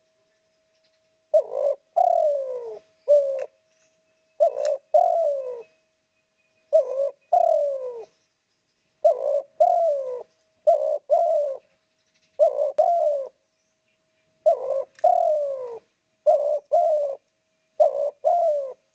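Spotted dove (derkuku/tekukur) cooing over and over, about ten phrases spaced roughly two seconds apart, each a short coo or two followed by a longer falling coo.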